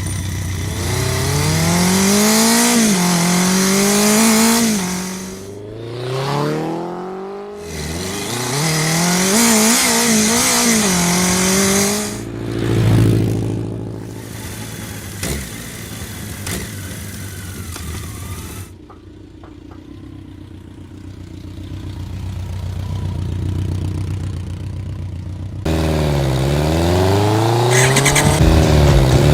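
Racing motorcycle engines revving hard, the pitch climbing and dropping again and again through gear changes. About two-thirds in the sound falls quieter for several seconds, then a loud engine comes back, its pitch dipping and rising again.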